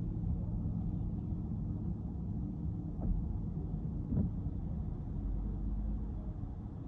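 A car driving, with steady low rumble from its engine and tyres. Two faint knocks come about three and four seconds in.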